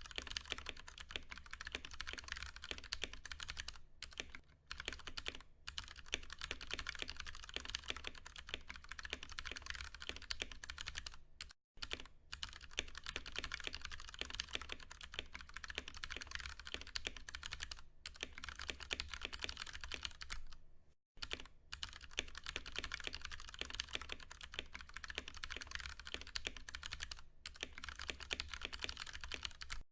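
Fast, continuous typing on a Ducky One 2 Mini mechanical keyboard with tactile, non-clicky Cherry MX Brown switches: a dense stream of key presses, broken by brief pauses three times.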